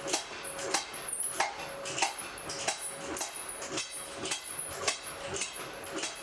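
Blacksmith's forge fire crackling, with a quick irregular run of sharp pops and snaps over a faint steady hum.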